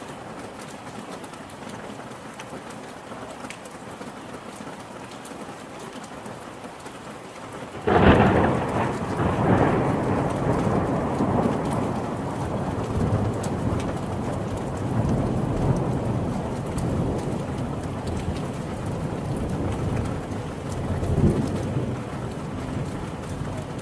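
Steady rain falling, then about eight seconds in a sudden clap of thunder that rolls on as a long, low rumble under the rain, swelling once more near the end.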